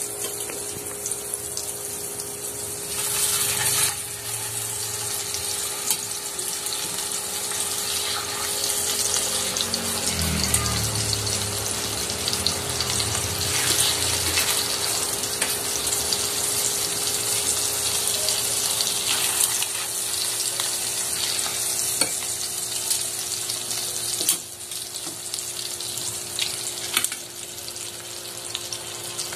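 Floured chicken pieces frying in melted butter in a small pan: a steady sizzling hiss with scattered crackles, louder for a moment about three seconds in.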